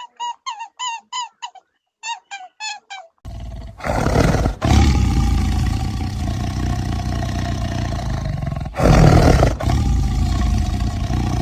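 A rapid run of short, high chirps, then, about three seconds in, a large animal's loud, deep roar with a heavy low rumble that carries on for several seconds and swells again near the end.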